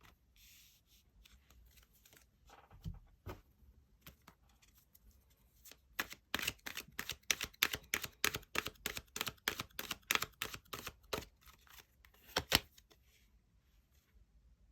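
Tarot cards being shuffled by hand: soft handling and a couple of light knocks, then a quick run of sharp card clicks, several a second, for about six seconds, ending in one louder snap.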